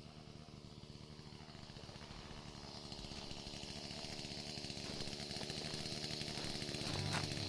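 A small engine running steadily, getting gradually louder.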